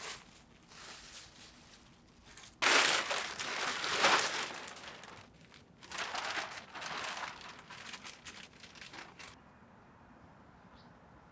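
Crinkling, crunching handling noise in two stretches, the first starting suddenly and loudest, the second ending about two seconds before the end.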